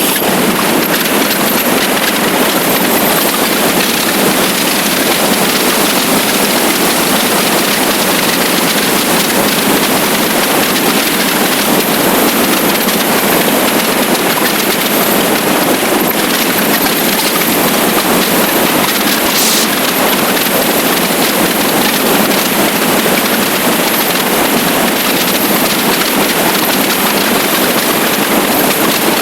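Steady, loud rush of wind and road noise on a microphone mounted on a motorcycle riding at speed, with the engine running underneath.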